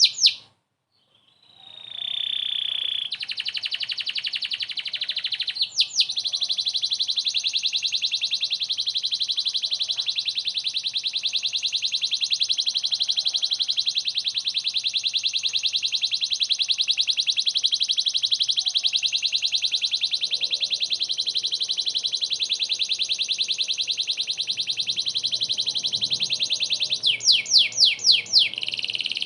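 Domestic canary singing hard: after a short pause, one very long, fast, even trill held for about twenty seconds, breaking into quick sweeping notes near the end.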